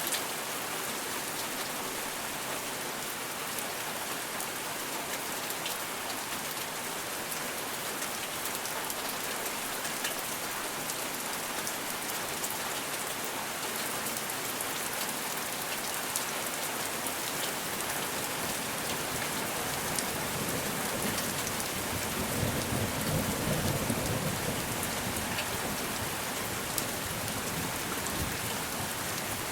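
Steady rain falling, an even hiss dotted with fine drop ticks. About three quarters of the way through, a low rumble of thunder swells and fades.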